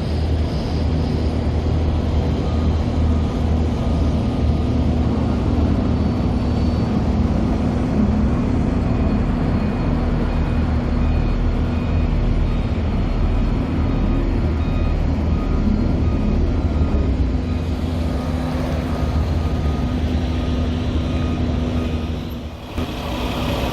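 Heavy asphalt trucks' diesel engines idling loud and steady close around, with faint evenly repeated beeping in the middle stretch.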